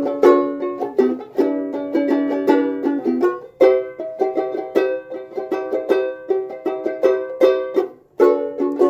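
A solo plucked string instrument playing the introduction of a song, with repeated chords and picked notes. The playing stops briefly about three and a half seconds in and again near eight seconds in.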